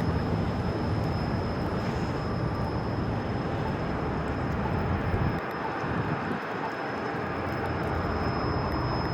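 Steady city street noise with a low rumble of passing traffic, which drops away about five seconds in.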